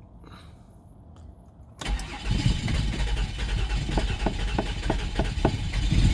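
2003 Mazda 6's 3.0 V6 being cranked from about two seconds in, with a buzzing sound and irregular sharp clicks. The car makes this noise when it tries to start but will not run.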